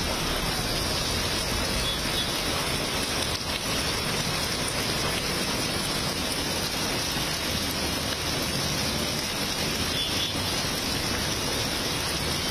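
Heavy monsoon rain pouring onto a road: a dense, steady hiss that keeps an even level throughout.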